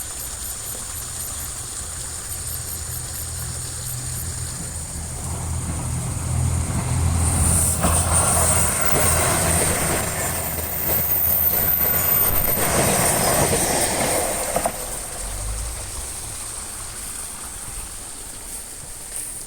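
A train passing close by on the rails: a low rumble that builds up, is loudest from about seven to fifteen seconds in, then dies away.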